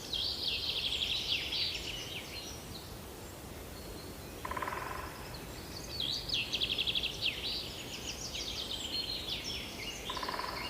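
Songbird singing in fast, high chirping trills, in two long phrases over a steady background hiss, with a lower buzzy rattle about four and a half seconds in and again near the end.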